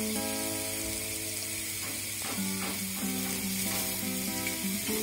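Ground spice paste with lemongrass and keluak sizzling steadily as it fries in oil in a steel wok. Soft instrumental background music plays over it.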